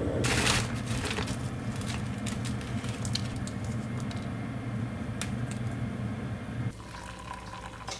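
A steady low machine hum that cuts off near the end, with a short rustle about half a second in and scattered light clicks and taps.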